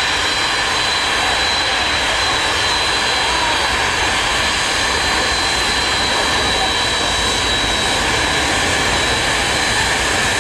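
A loud, steady jet-like roar with a thin, high, steady whine over it, like big aircraft engines overhead.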